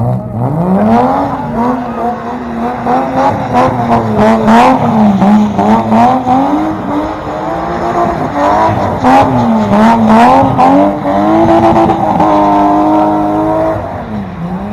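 Car engine, most likely a BMW E30's, revved hard and held high, its pitch rising and falling again and again, with sharp cracks throughout. It climbs sharply right at the start and drops off near the end.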